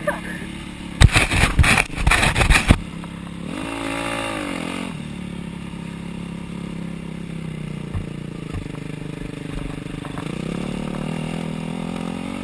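250cc four-stroke single-cylinder motocross bike engine running at low revs. About a second in comes a burst of loud knocks and rattles lasting a couple of seconds, and a little later a single rev rises and falls.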